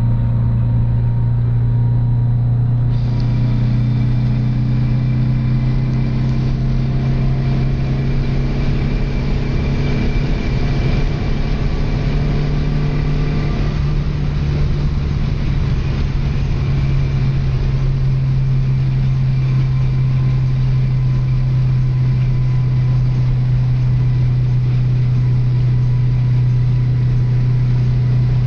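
VW Beetle's 2-litre Type 4 air-cooled flat-four engine droning steadily at autobahn cruising speed, heard from inside the car with road and wind noise; the engine is fresh and being run in. Its note edges slightly higher about halfway through.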